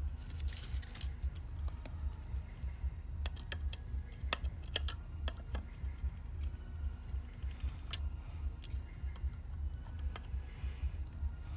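Scattered light clicks and taps of small metal parts and wire being handled while fitting a ground wire to a light fixture, over a steady low hum.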